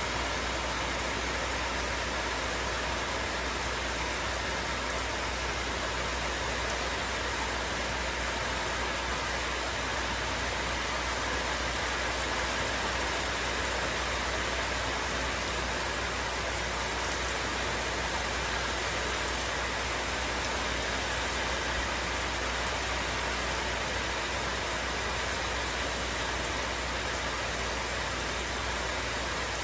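Rain falling steadily: an even, unbroken hiss with no pauses or changes.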